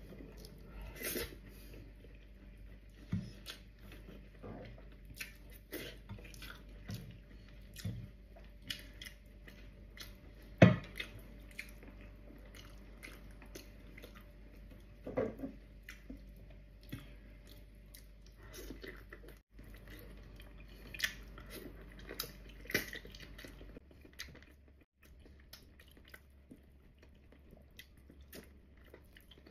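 Close-up wet chewing and lip smacking as a person eats gelatinous cow-foot stew and rice by hand, with scattered soft clicks. One sharp knock about ten seconds in.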